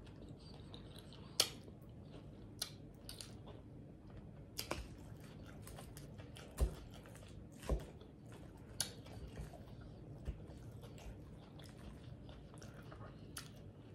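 Close-up chewing and biting of a Caesar salad with salmon, with scattered sharp clicks of a fork against the food container.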